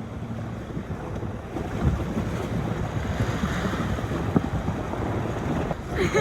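Wind buffeting the microphone: a steady rushing noise with low crackle, growing a little louder about a second and a half in.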